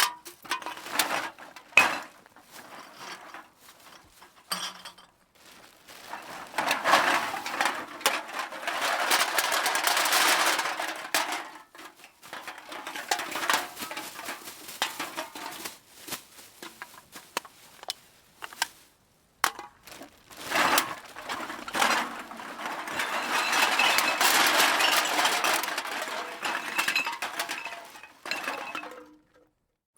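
Many small hard objects being dumped out together, clattering and clinking in two long runs of about six seconds each, with scattered single clinks between them.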